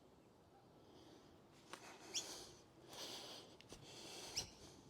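Faint bird calls: three short, high chirps that fall in pitch, about two seconds apart, with soft rustling between them.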